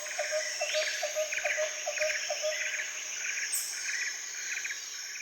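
Nature ambience of birds and insects: a short chirp repeated about three times a second over insects trilling in rapid pulses and a steady high drone.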